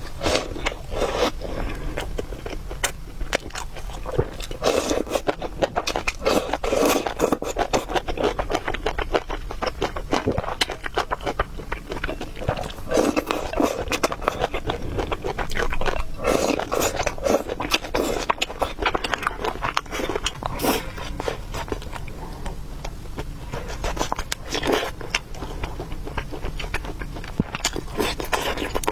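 Close-miked eating of noodles and meatballs: irregular chewing and wet mouth sounds, with many small clicks and scrapes.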